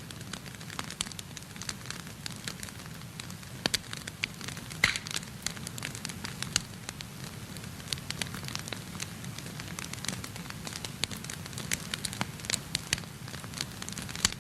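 Wood fire in a fireplace crackling, with irregular sharp pops over a low steady rumble of burning. Two louder pops come a few seconds in.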